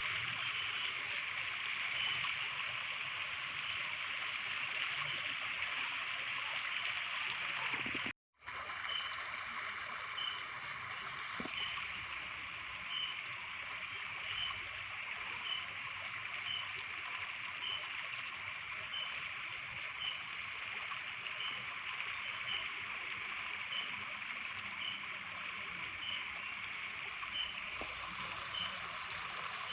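Steady hiss of running water with insects chirping in regular, evenly spaced pulses. The sound cuts out for a moment about eight seconds in, then carries on.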